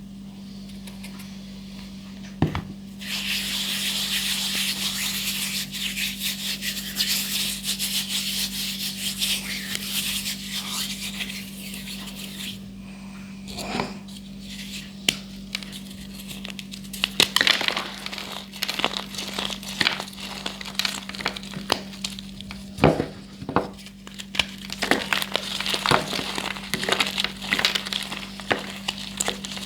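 Blocks of gym chalk being crushed and crumbled. A dense, powdery crumbling hiss runs for several seconds, then from about seventeen seconds in comes a run of sharp cracks and crunches. A steady low hum lies underneath.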